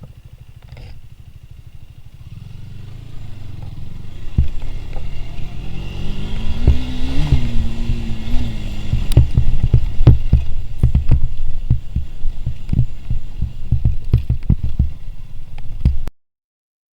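Motorcycle engine running with a low throbbing exhaust, growing louder over the first few seconds and rising and falling a little in pitch midway. Many sharp knocks and clatters come over the second half, and the sound cuts off suddenly near the end.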